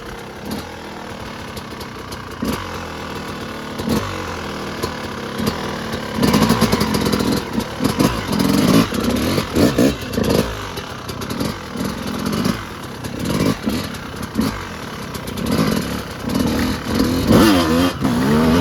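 Yamaha YZ250 two-stroke dirt bike engine being ridden. It runs lighter for the first few seconds, then about six seconds in the throttle is opened in repeated bursts, the pitch climbing and dropping again and again.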